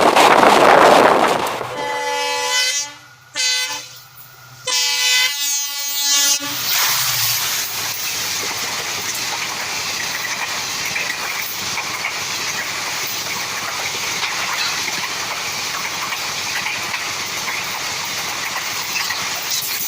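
Indian Railways diesel locomotive horn sounding three blasts, the last the longest, then the train running past with a steady rumble of wheels on the rails.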